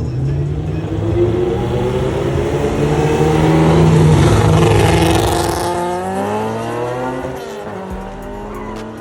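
Performance car engine held at high revs with tires squealing, loudest about four to five seconds in, then easing as the engine pitch shifts.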